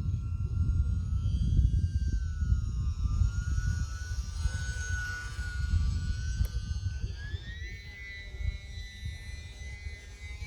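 Wind buffeting the microphone, with the high whine of the UMX Turbo Timber's electric motor and propeller over it, wavering in pitch and rising about two-thirds of the way in.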